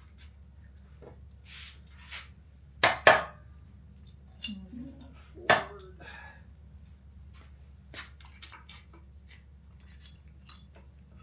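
Heavy metal engine parts and tools clinking and clanking as a GM 8.1L V8 is taken apart. There are scattered taps and clicks, and the loudest hits are two sharp clanks close together about three seconds in and another about five and a half seconds in.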